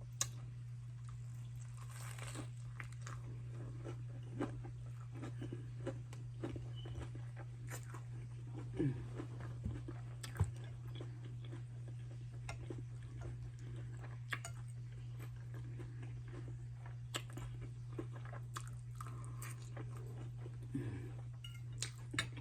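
A person chewing food close to the microphone, with scattered crunches and small mouth clicks, over a steady low hum.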